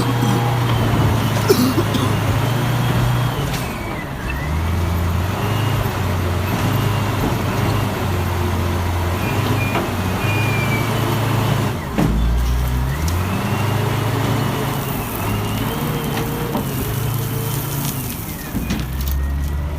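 Engine sound of toy or cartoon construction machines loading sand: a low drone that jumps abruptly between a few steady pitches, with faint rising and falling whistle-like tones above it.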